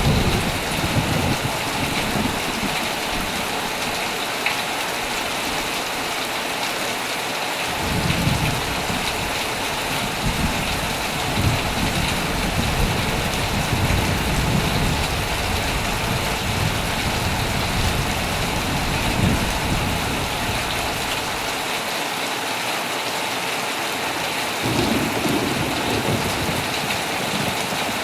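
Heavy rain falling steadily, with low rolling thunder. The thunder rumbles at the start, swells again for a long stretch from about a quarter of the way in, and rolls once more near the end.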